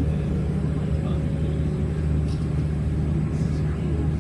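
Steady low hum of a tourist submarine's machinery, heard inside the passenger cabin.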